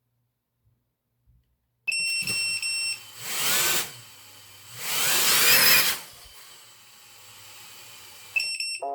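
Flywoo CineRace20 V2 cinewhoop's motors spinning: a steady high whine starts about two seconds in, then two throttle surges about a second and a half apart, then a quieter spin with the whine returning near the end.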